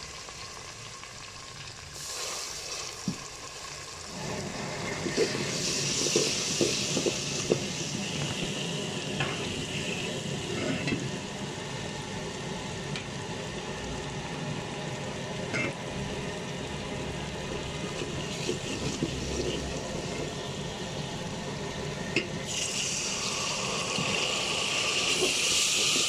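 Onion-tomato masala frying and sizzling in hot ghee in a pot while a spoon stirs it, scraping and clicking against the metal. Near the end the sizzle suddenly gets louder and hissier as a splash of water goes in to keep the masala from sticking.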